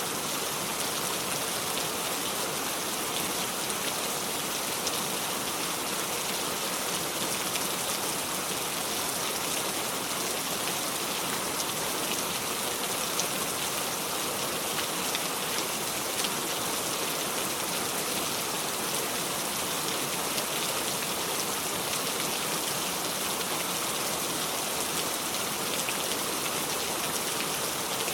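Steady heavy rain falling on a surface, an even hiss dotted with small drop ticks, without thunder.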